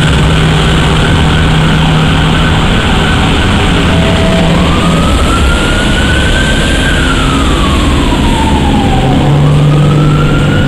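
2013 Aston Martin Vanquish's V12 running low and steady as the car pulls slowly away, a little louder near the end. From about halfway a single high tone glides up, holds, slides down, then starts rising again.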